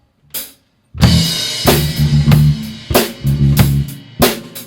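Live rock band starting a song: the last sharp click of a count-in, then about a second in the drum kit, bass and guitar come in together, with hard drum hits recurring through the groove.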